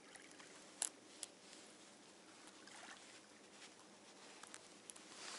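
Faint handling noises from fishing tackle being worked by hand: small ticks and rustles, with one sharp click about a second in and another just after, over a low steady hiss.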